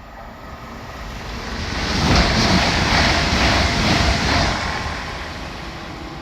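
A train passing through at speed: rushing rail and wheel noise that builds, peaks for a couple of seconds, then fades away as it goes by.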